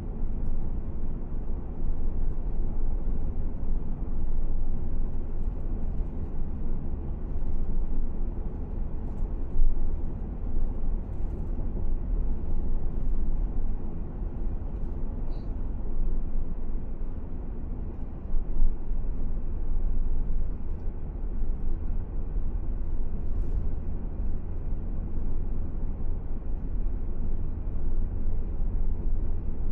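Car driving along at a steady speed: a constant low rumble of road and engine noise, with a few faint ticks.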